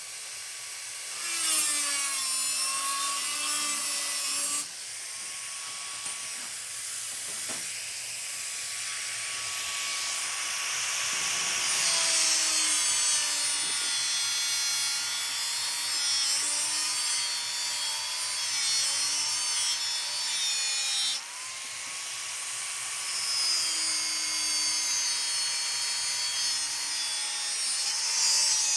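A small electric motor whining, its pitch dipping and recovering again and again as it is loaded, with a rasping cutting noise over it.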